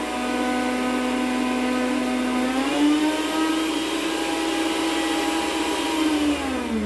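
Mondial stand mixer's electric motor running with a steady whine, spinning without driving the beaters because the drive belt is broken. Its pitch steps up about two and a half seconds in, then winds down as it is switched off near the end.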